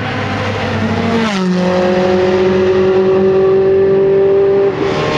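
Ferrari F12 Berlinetta's V12 engine running at high revs. Its pitch drops about a second in, then holds steady while growing louder, and the level and pitch fall again near the end.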